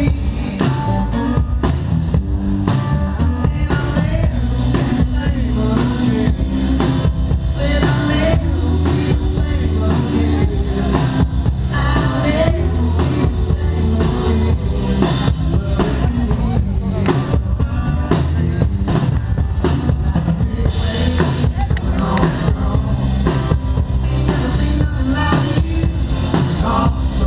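A live rock band playing an upbeat song, with a drum kit keeping a steady beat over bass and guitar, and a voice singing in places.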